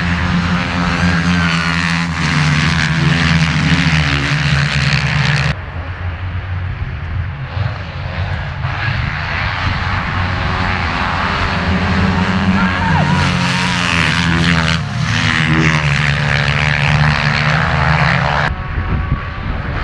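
Motocross bike engines at racing speed, the revs rising and falling with throttle and gear changes. The sound changes abruptly about five seconds in and again near the end.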